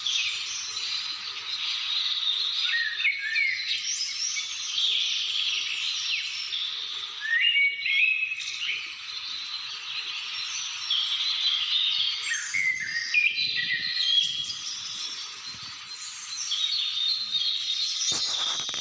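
A dense chorus of many birds calling and singing at once, overlapping chirps and short whistles with no pause. There is a short crackle near the end.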